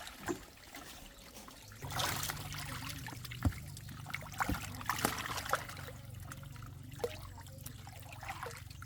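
Water trickling and splashing, with scattered knocks, as small fish are caught out of a pond. A steady low hum from a motor sets in about two seconds in and runs beneath it.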